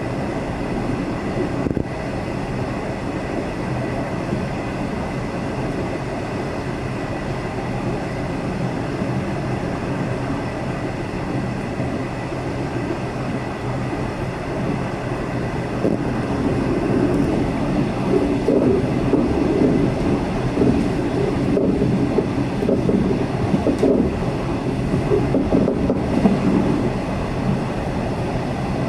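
V/Line passenger train running along the line: a steady running noise of the wheels on the rails with a faint steady whine. It grows louder about halfway through.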